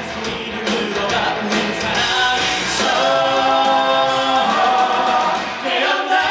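A musical-theatre cast singing live over loud accompaniment, with several voices together; they hold a long note from about three seconds in.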